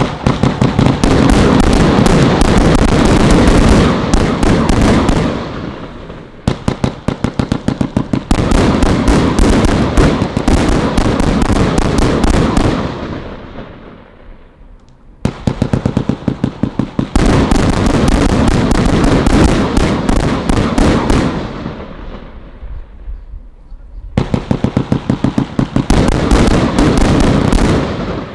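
Celtic Fireworks 'Thunder Struck' firework going off in volleys of rapid-fire bangs, each stretch of bangs fading away before the next begins, with three such fades about 5, 13 and 22 seconds in.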